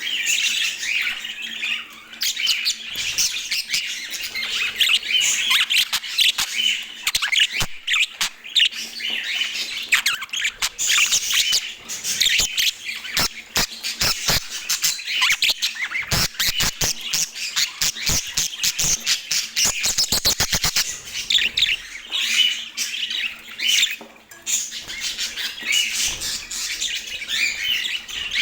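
Pet budgerigars chattering and warbling without a break, with many sharp clicks and taps mixed in, including a fast run of clicks about two-thirds of the way through.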